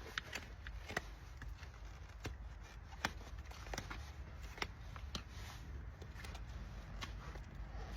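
Hoof trimming tools cutting horse hoof horn: irregular sharp clicks and snips, about one or two a second, over a low rumble.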